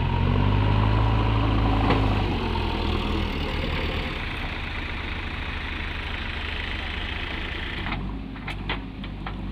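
Tractor diesel engine revving up, loudest in the first two seconds, then easing back to run steadily. A few sharp clicks or knocks near the end.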